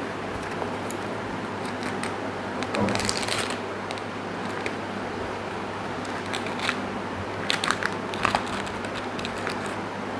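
Short rustles and sharp clicks from handling food and tableware, over a steady low hum: a scratchy rustle about three seconds in, then a few clicks near the end.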